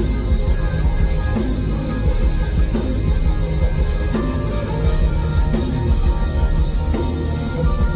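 Rock band playing live, with drum kit and electric guitar over a steady beat.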